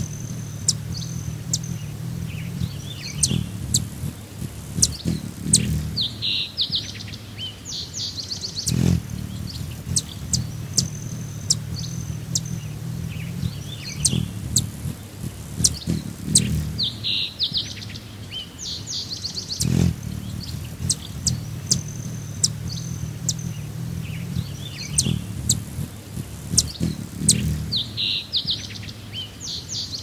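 Songbirds chirping and trilling in short high bursts over a low steady hum. The same stretch of bird ambience repeats about every eleven seconds.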